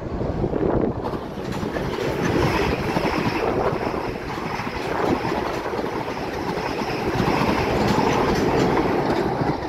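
South Western Railway passenger train running past on the tracks below, its wheels clattering over the rails. The sound builds through the first second and then holds steady as the carriages go by.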